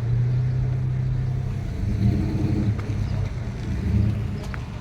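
A car engine running with a low, steady rumble that swells and eases a little.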